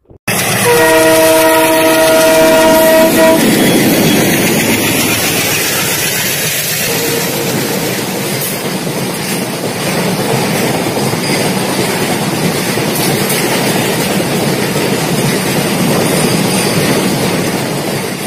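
Train horn sounding one long multi-tone blast of about three seconds, followed by the steady running noise of the train on the rails.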